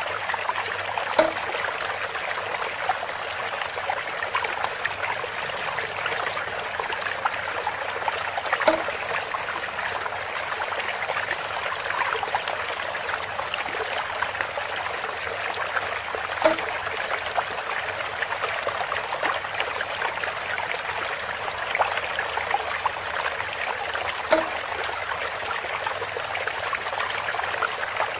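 Water trickling and splashing steadily from a bamboo water feature, with a short hollow knock four times, about every eight seconds.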